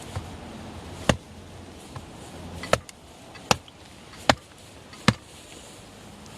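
Firewood being split or chopped with an axe: five sharp blows, the last four less than a second apart.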